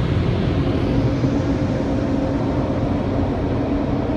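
Automatic car wash heard from inside the car: a steady, loud rushing beating on the car, a 'hurricane', with a steady hum joining in about a second in.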